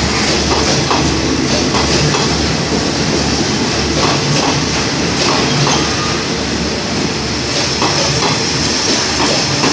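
State Railway of Thailand passenger coaches rolling past as the train pulls into the station, their wheels clacking over rail joints a few times a second over a steady rumble, with a steady high-pitched squeal above it.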